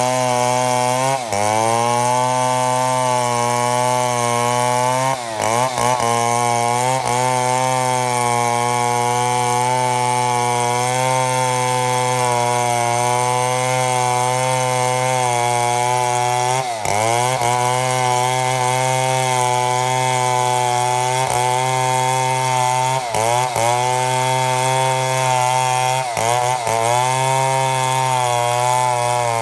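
Chainsaw running at full throttle through a long milling cut in mahogany. Its pitch dips briefly and recovers about six times as the engine bogs under load.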